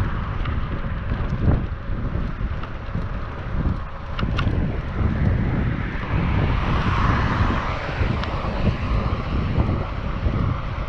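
Wind buffeting a GoPro's microphone on a moving bicycle, a steady low rumble, with a few sharp ticks about four seconds in. A broad rushing noise swells and fades just past the middle, like a vehicle passing.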